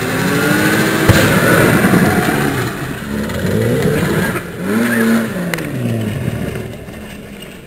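Opel Ascona's swapped-in 3.0-litre 24-valve straight-six (C30SE) revving hard in repeated surges, its pitch climbing and dropping, over the rush of rear tyres spinning in a smoky burnout and drift. The noise fades away over the last couple of seconds as the car moves off.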